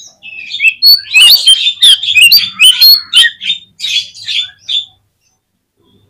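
Oriental magpie-robin singing a loud, fast run of varied whistled and scratchy notes. The run lasts about four and a half seconds and breaks off near the five-second mark.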